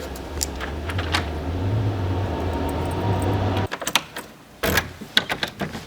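A motor or engine hums steadily with its pitch creeping up, with a few sharp clicks over it, then cuts off abruptly a little over halfway through. Scattered clicks and knocks follow, one louder knock among them.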